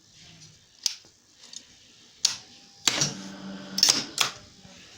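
Sauter CNC tool turret indexing: a series of sharp mechanical clacks, with a short motor hum between about three and four seconds in.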